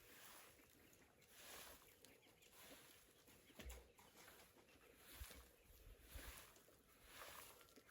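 Near silence: a faint outdoor background with soft swishing sounds that recur about once a second, and a couple of faint low knocks.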